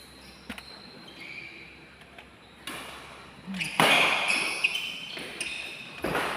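Badminton rally: sharp racket strikes on the shuttlecock, faint at first, with loud hits a little past halfway and again near the end.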